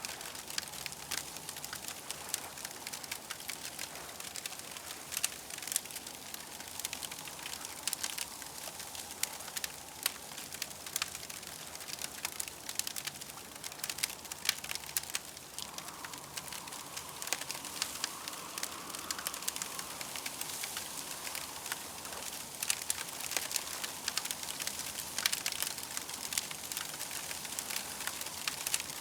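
Campfire crackling: dense, irregular pops and snaps over a steady hiss, with a faint wavering tone rising and fading about halfway through.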